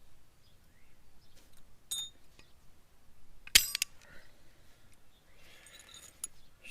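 Metal hand tools clinking with a bright ringing tone: a light clink about two seconds in, a louder sharp clink about three and a half seconds in, and a few faint ringing ticks near the end.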